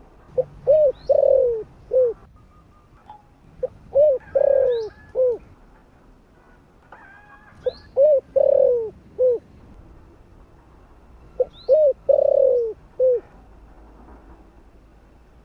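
Spotted dove cooing its calling song: four phrases about four seconds apart. Each phrase is a few short coos around a longer, falling middle coo.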